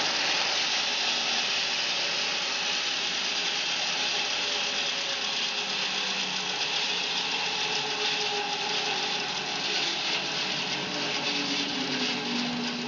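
Home-built bandsaw mill running steadily through a fir log: a continuous saw hiss over the mill's engine, whose note slowly drops in pitch as it works under load.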